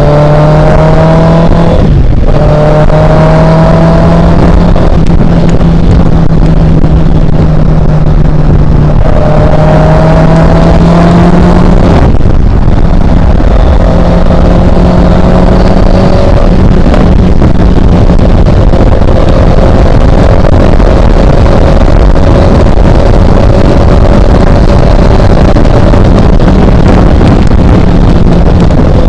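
Motorcycle at highway speed heard through an action camera's built-in microphone: heavy wind roar, very loud and near clipping, over the engine's steady hum. The engine tone climbs in pitch and cuts out briefly twice, about two seconds in and about twelve seconds in.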